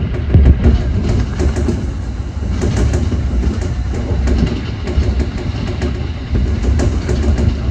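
Kintetsu 1021 series electric train running along the line, heard from the cab: a steady rumble of wheels on rail, with the wheels clicking over rail joints in pairs every couple of seconds.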